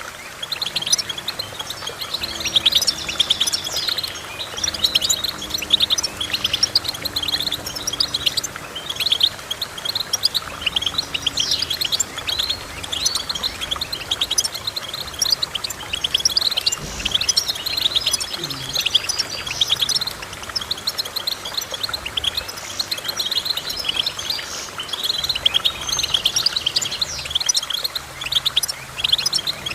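Finches singing: a dense, continuous run of rapid high chirps and twittering trills.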